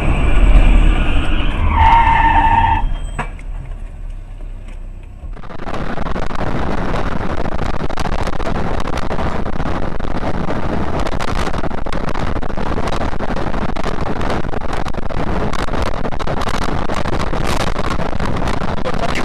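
In-car dashcam audio of a car on the road: engine and road noise with a brief horn note about two seconds in, fading out. After a cut, a steady loud rush of road and wind noise with frequent crackles.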